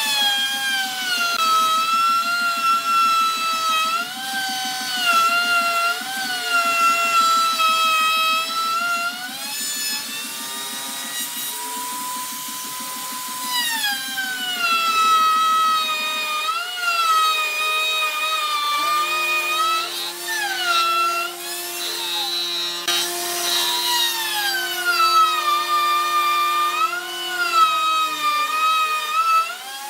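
Electric power tool working wood. Its motor whine keeps sagging in pitch under load and climbing back as it frees up. A fast low pulsing runs beneath it for the first half, and a steadier low hum joins from about two-thirds of the way in.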